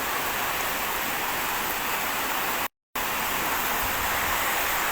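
Heavy rain driven by strong wind: a steady, even hiss, broken by a brief silent gap a little past the middle.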